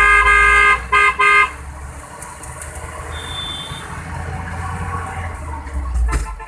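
A vehicle horn sounds one long honk and then two short toots, over the steady low rumble of a vehicle engine and road noise.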